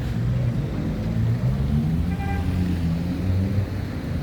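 Motor vehicle engine running with a steady low rumble whose pitch shifts a little. A brief high tone sounds once, about two seconds in.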